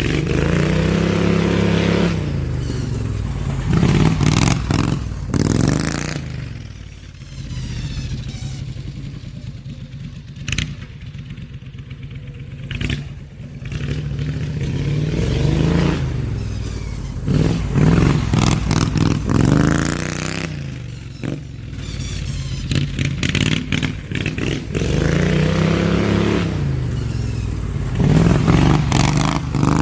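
Slightly modified Briggs & Stratton V-twin engine of a hot-rodded Craftsman LT2000 riding mower running hard through its exhaust, revving up and easing off over and over as it laps, its pitch rising and falling several times.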